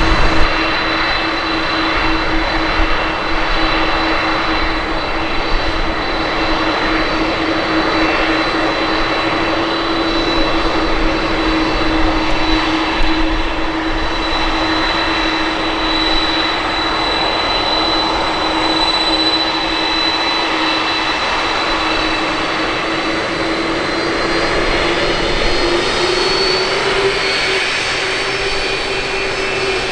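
Jet airliner's engines running with a steady whine over a rushing noise, the pitch climbing slightly a few seconds before the end.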